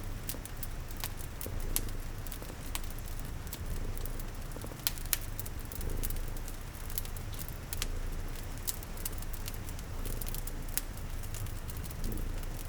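Wood fire crackling with irregular sharp pops over a steady hiss of rain, with a cat's low, continuous purr underneath.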